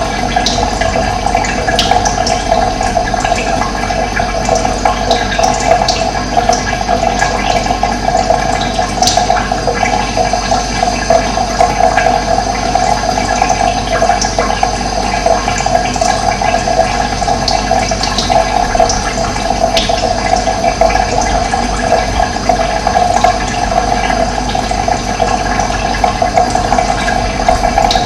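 Running water, a steady rushing flow, with brief high bird chirps scattered over it.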